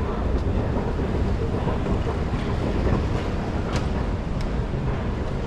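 JFK AirTrain rail car running with a steady low rumble and a few faint clicks near the end.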